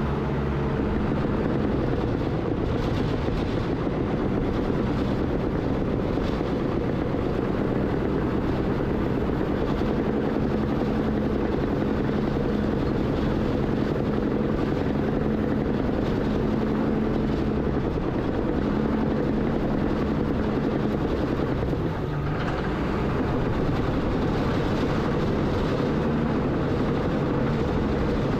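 Bulldozer's diesel engine running steadily under load while pushing dirt, with a brief dip in the engine note about three quarters of the way through before it picks back up.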